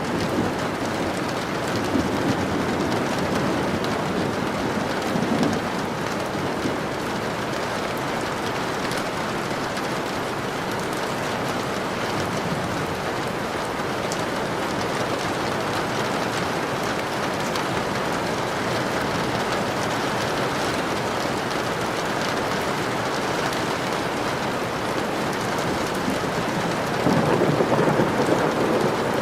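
Steady rain falling, with thunder rumbling low about two seconds in and a louder rumble of thunder near the end.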